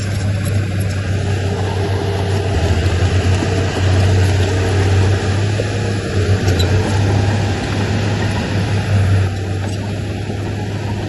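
Diesel engine of heavy earthmoving machinery running with a steady low drone. It works harder for several seconds in the middle, then eases back.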